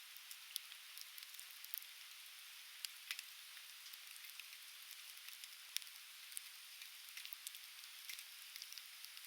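Conifer firewood burning in a fire pit, crackling with irregular sharp pops, the strongest about three and six seconds in, over a steady faint hiss of flame and river water.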